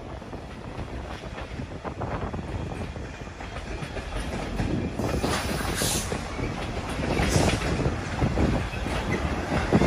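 Container flat wagons of a freight train rolling past, their wheels clattering over the rail joints with a steady rumble that grows louder.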